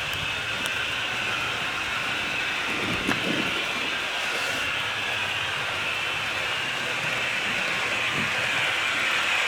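HO scale model train running on the layout: a steady whir of the motor and small wheels on the rails, with a click about three seconds in, growing louder near the end as it draws closer.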